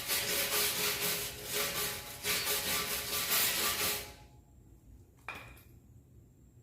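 Rhythmic rubbing or scrubbing strokes on the tank's metal, about two a second, which stop abruptly about four seconds in, followed by a single short knock.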